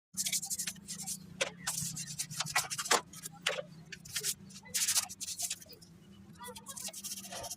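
A brush scrubbing a car engine with detergent water in short, irregular strokes, about two a second, over a steady low hum.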